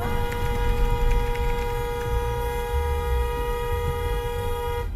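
Car horn held down in one continuous, steady blast of about five seconds, starting and cutting off abruptly: an angry protest at another car stopping in the way. Low road and engine rumble runs underneath.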